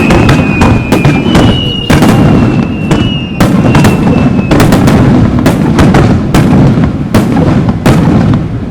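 Aerial fireworks bursting in rapid succession: many sharp booms and cracks over a continuous low rumble. A high whistle slides slightly down in pitch through the first half.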